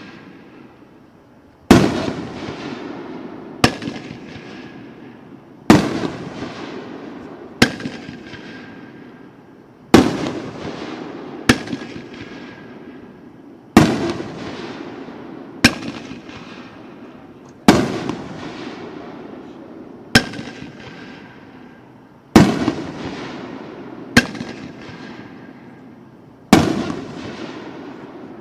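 A 9-shot 'Monstrous Brocade Ring' fireworks cake firing its shells one at a time, about one every four seconds. Each shot is a sharp launch thump followed about two seconds later by a louder aerial burst that trails off in a long fading rumble and crackle.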